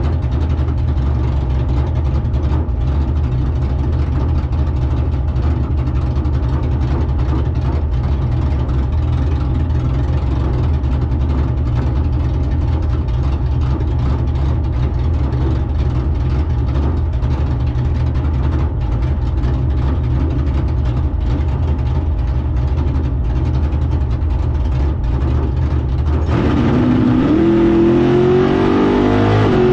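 A drag car's engine idling with a steady low rumble, then about 26 seconds in it revs up suddenly and climbs in pitch as the car accelerates hard.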